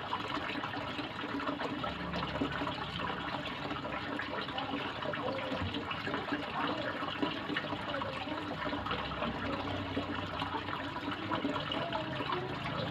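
Water running and splashing steadily into a koi pond, an even rushing sound.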